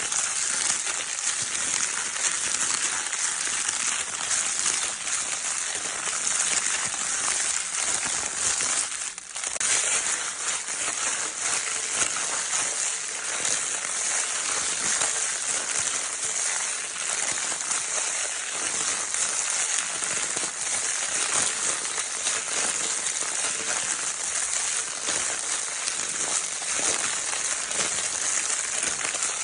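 Crinkle paper from a baby's crinkle toy being crinkled continuously: a dense, steady, hissy crackle, with a brief lull about nine seconds in.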